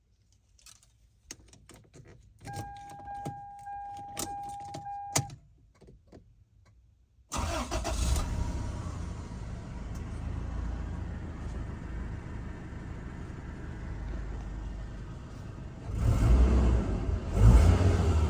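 Clicks of a key and controls, with a steady electronic warning tone for a few seconds. Then, about seven seconds in, a 1999 Toyota Land Cruiser Prado RZJ95's 2.7-litre 3RZ-FE four-cylinder petrol engine starts and idles. Near the end it is revved twice.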